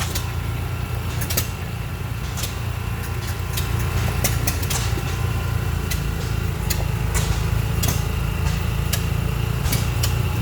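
Old oil-field engines running: a steady low rumble with irregular sharp pops, about one or two a second.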